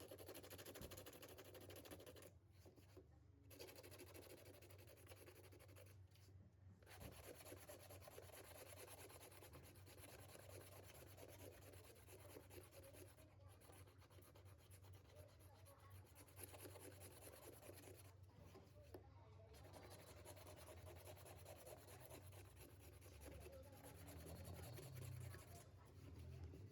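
Faint continuous scratching, broken by short pauses about two, six and eighteen seconds in.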